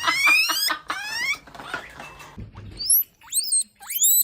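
Guinea pig wheeking: a run of high rising squeals in the first second and a half, then after a short lull more sharply rising calls from about three seconds in.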